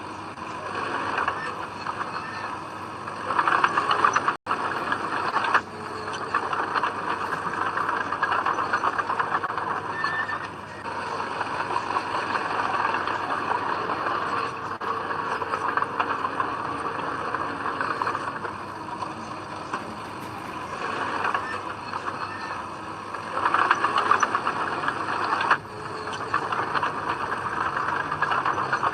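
Komatsu D20P crawler bulldozer working soil, its diesel engine running under load with its steel tracks clattering. The level swells and dips, with sudden breaks and a brief cut-out about four seconds in.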